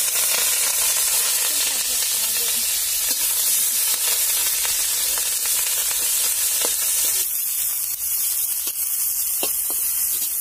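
Garlic, onion and green chilli sizzling hard in hot oil in an iron kadai, just added, with short scrapes and clicks of a metal spatula stirring them. The sizzle eases a little about seven seconds in.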